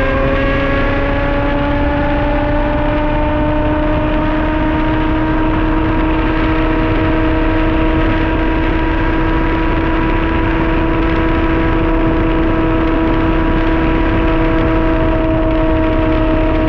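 2007 Suzuki GSX-R1000's inline-four running hard through an open Yoshimura exhaust with its dB killer removed, at cruising speed on the highway. The revs climb slowly through the first half, then hold steady, over a heavy rush of wind.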